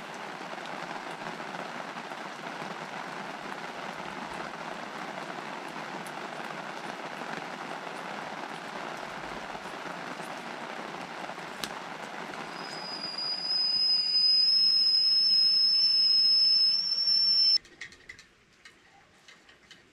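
Steady rain falling. A loud, high-pitched steady tone joins about two-thirds of the way through and rises slightly. Both cut off abruptly near the end, leaving quiet.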